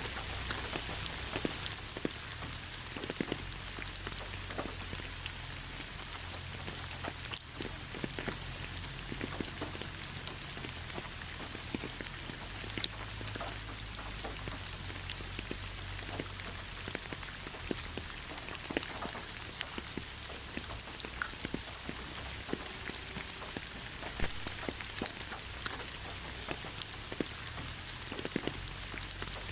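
Steady rain falling, with many individual drops ticking close by over an even hiss and a low rumble underneath.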